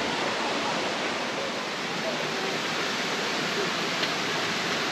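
Steady rush of a mountain stream, an even hiss of flowing water with no breaks.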